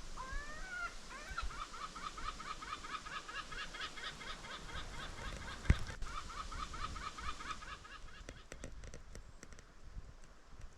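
An animal calling in a fast, even chatter of repeated notes, about seven a second, for several seconds, opening with a few gliding calls. One sharp knock about midway, and a few light taps near the end.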